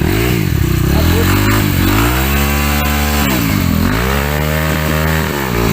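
Trail motorcycle engine revved hard: the pitch climbs to a high screaming note and holds, drops sharply, then climbs and holds again before falling off near the end.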